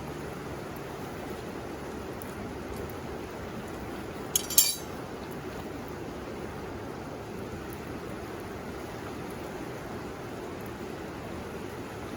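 Steady rushing of a river, with a brief bright clink of two quick strikes about four and a half seconds in.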